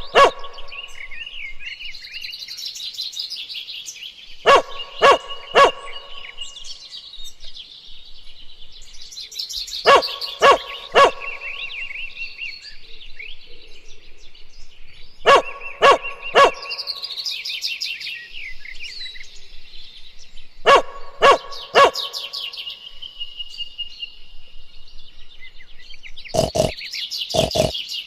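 Birds chirping and twittering throughout, with a dog barking in groups of three about every five and a half seconds. Near the end a different run of shorter, lower calls starts.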